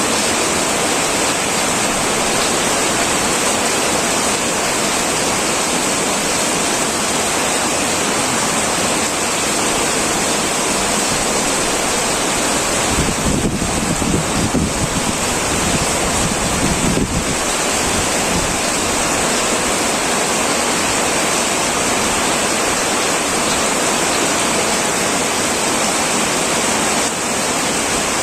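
Heavy rain drumming steadily on a tin metal roof, with a brief low rumble about halfway through.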